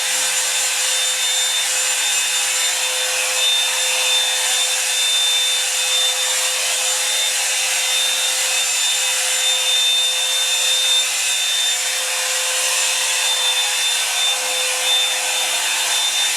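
Revlon One-Step hair dryer brush running steadily on its cool setting: a constant rush of air with a steady high motor whine.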